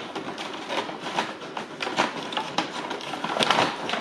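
Packaging being handled close to the microphone: irregular crinkling and rustling with many small clicks, busier near the end.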